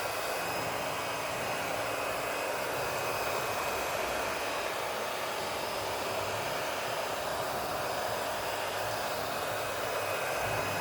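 Hair dryer running steadily with a faint motor whine, blowing into the base of a Samsung washing machine to dry out water on the leak sensor behind its LC1 error.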